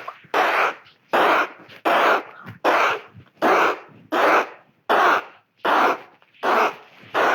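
A child coughing over and over, about ten short coughs at an even pace of roughly one a second, acting out a flu cough.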